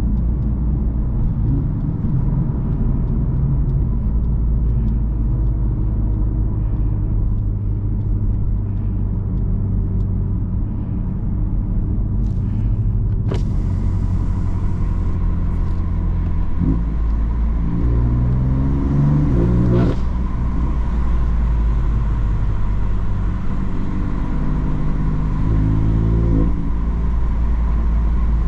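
BMW M3 F80's twin-turbo straight-six with an M Performance exhaust, running under way with a steady low drone. About halfway through there is a sharp click, then the engine climbs in pitch in short rising runs as it is accelerated, and rises briefly again near the end.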